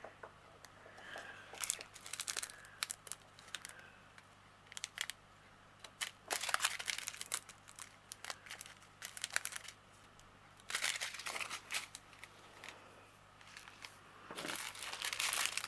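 Small plastic bags of diamond painting drills crinkling as they are handled and sorted, in several short bursts with scattered small clicks between them.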